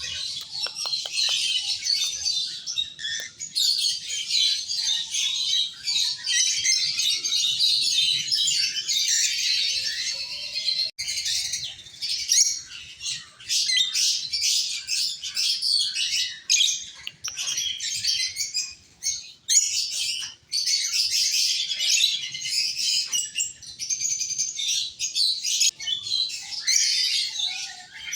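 Rosy-faced (peach-faced) lovebirds chattering: a dense, continuous stream of high-pitched chirps and squawks, with a brief break about eleven seconds in.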